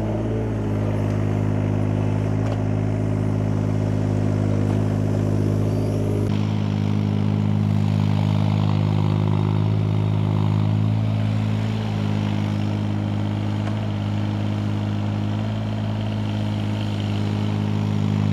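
An engine running steadily at a constant speed, a continuous low drone that barely changes, with abrupt small shifts in its tone about six and twelve seconds in.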